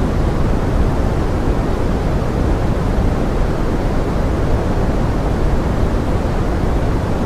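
Steady pink noise blended with forest rain: an even, unchanging rushing hiss, weighted toward the low end.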